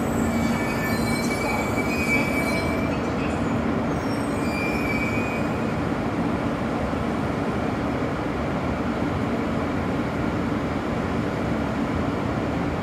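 E2-series Shinkansen train moving slowly at the platform: a steady rumble and hum, with thin high squeals in the first five seconds or so.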